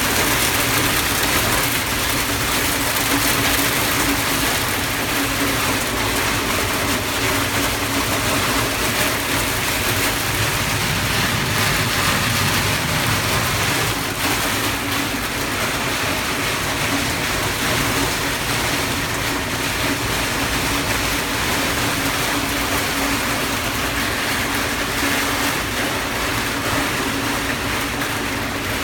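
Tractor engine running steadily under an even hiss of wind and rain from a storm, heard from inside the cab.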